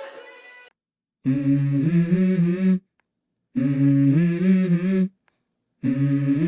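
Background music: a guitar passage ends within the first second, then a voice hums three sustained phrases, each stepping up in pitch partway through, with short silences between them.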